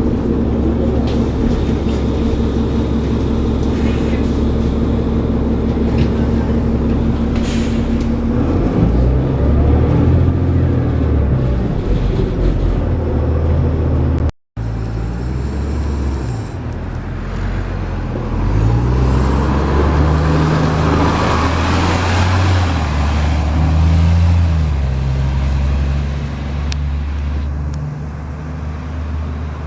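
Cummins ISL straight-six diesel of a New Flyer D40LF transit bus, heard from on board. The engine runs steadily, then pulls hard, its pitch rising and dropping in steps as the ZF automatic transmission shifts up. The sound cuts out for an instant about halfway through, and the bus then accelerates again through its gears.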